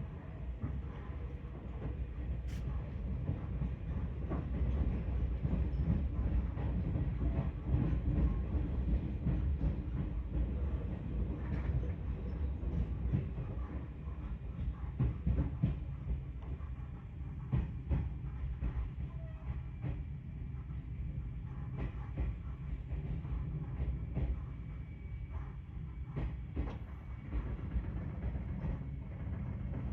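Seibu Railway train running slowly into a turnback siding, heard from inside the car: a steady low rumble with irregular clicks and knocks from the wheels crossing rail joints and points, a little quieter in the second half.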